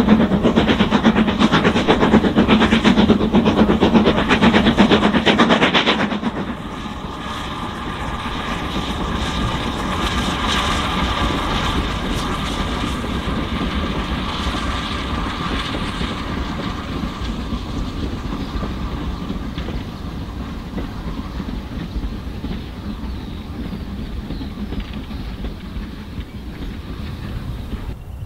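Steam train passing: the locomotive's loud rapid beat and clatter for about six seconds, then the level drops sharply and the carriages roll on with wheel clatter, slowly fading.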